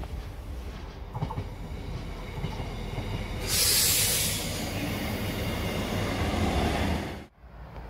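A train moving along the track, with steady running noise and a loud rush of hissing noise about three and a half seconds in. The sound cuts off suddenly near the end.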